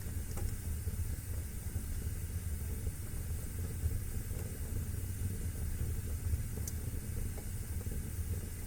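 Wood fire burning in a fireplace: a steady low rumble and hiss, with a few faint crackles.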